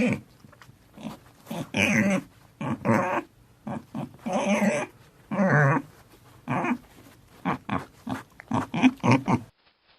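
A dog barking repeatedly in short, throaty barks that come closer together near the end.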